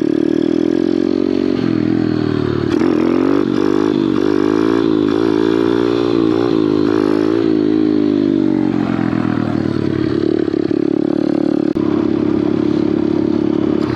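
Small Kawasaki pit bike's single-cylinder engine running under the rider, its pitch wavering up and down with the throttle a few seconds in, then steadying again.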